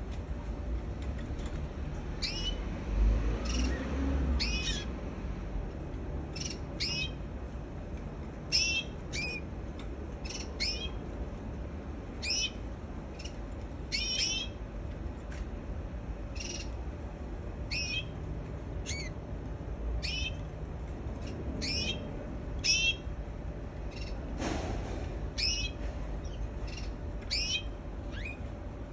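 Canary giving short, separate chirps one after another, each a quick downward-sweeping note, every second or so. A low bump is heard about three seconds in.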